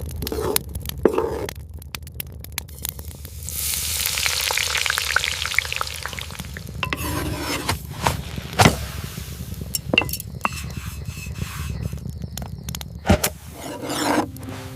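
Food frying and sizzling in a pan, with stirring and scattered sharp clinks and knocks of utensils. The sizzle swells about four seconds in and eases off a couple of seconds later.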